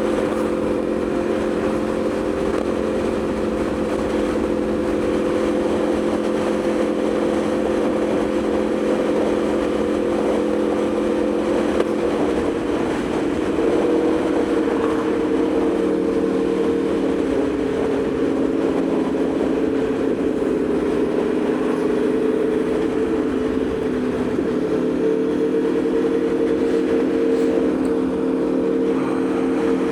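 Aprilia Tuono V4 motorcycle's V4 engine running at a steady cruise, its pitch stepping slightly higher about halfway through.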